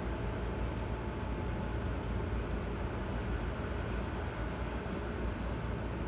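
Seibu 6000-series electric train running: a steady rumble of wheels on rail and running gear. Faint high-pitched tones come and go from about one to five seconds in.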